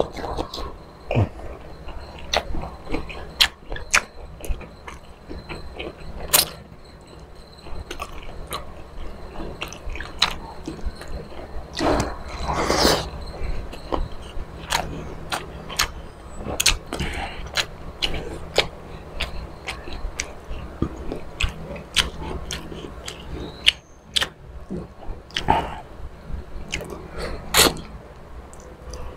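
Close-up mouth sounds of a person eating squid adobo by hand: chewing and many short wet smacks and clicks of the lips, with one longer, louder wet sucking sound about twelve seconds in.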